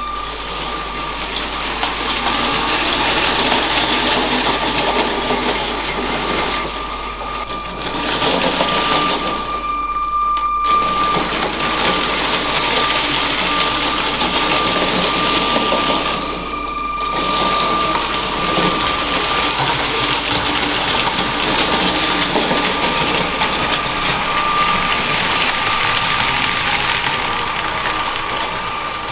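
A LEGO train's electric motor whining and its plastic wheels clattering along LEGO track. The sound rises and falls, dropping away briefly three times as the train moves along the layout.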